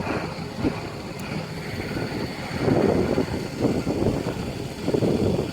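Wind buffeting a phone's microphone in irregular gusts, with a faint steady high whine underneath.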